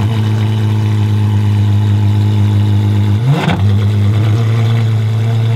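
Apollo Intensa Emozione's 6.3-litre naturally aspirated V12 idling steadily, with one short, sharp throttle blip a little past halfway that rises and drops straight back to idle.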